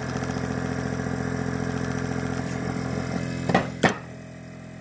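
12 V Viair 444C air-ride compressor running with a fast, steady pulse but building no pressure (0 PSI); it doesn't sound good and is judged dead. About three and a half seconds in come two sharp clicks, and the running drops to a quieter hum.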